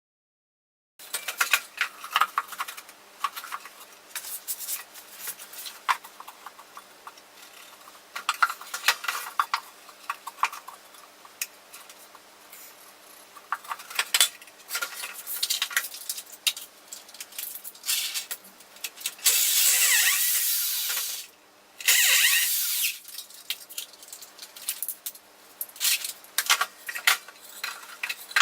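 Wood, screws and tools clattering and knocking as they are handled, then a power drill running in two bursts about two-thirds of the way through, a couple of seconds and then about one second long, driving screws into wood.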